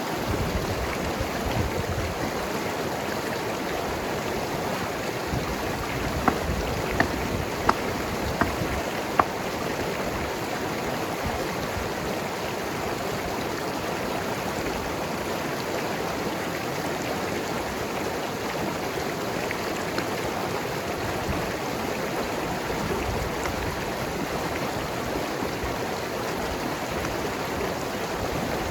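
Mountain river flowing and gurgling over rocks, a steady rushing of water. A few short, sharp clicks stand out about six to nine seconds in.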